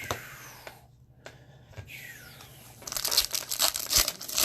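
Foil trading-card pack wrapper crinkling as it is torn open, with a dense stretch of crinkling in the last second and a half.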